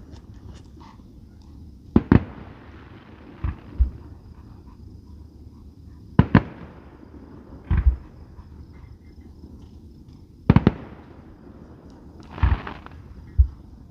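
Fireworks display: aerial shells going off in sharp bangs every one to two seconds, several in quick pairs, each with a short echo.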